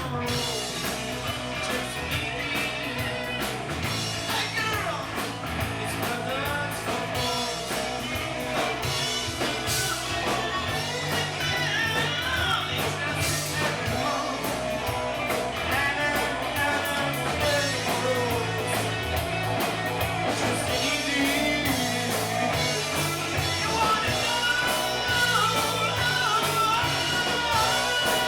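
A rock band playing a blues-rock song, with a singer over bass, guitar and a steady drum beat.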